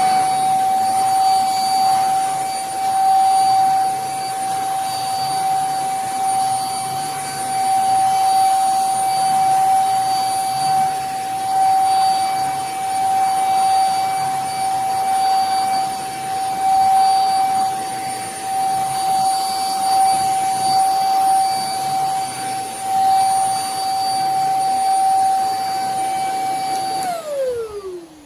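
YUFAC handheld mattress vacuum's motor running with a steady high whine over a rush of air. Near the end it is switched off, and the whine falls away as the motor spins down.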